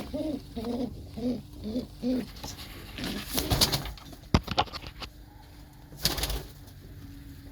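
Domestic pigeon cooing: a run of short, low coos in the first two seconds. Then come bursts of rustling noise and one sharp click.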